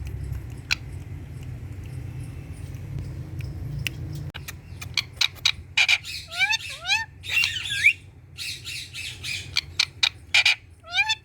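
Indian ringneck parrot giving a run of harsh squawks and short rising calls, with sharp clicks among them, starting about four seconds in after a low steady rumble.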